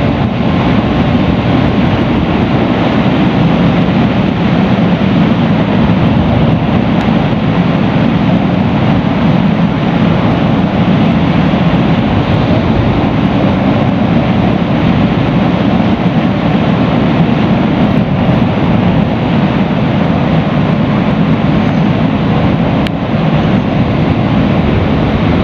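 Bajaj Pulsar NS200's single-cylinder engine running steadily at cruising speed, with wind rushing over the microphone.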